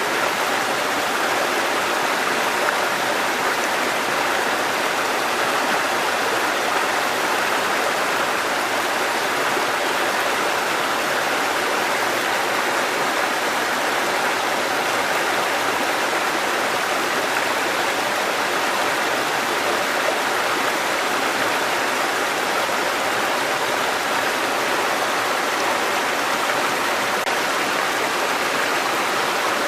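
Water cascading down a mountain stream, a steady rushing and splashing that holds even throughout.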